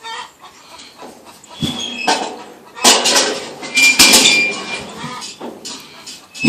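Bricks knocking and clattering together as they are handled and stacked, a series of sharp hard hits that come thicker and louder from about two seconds in.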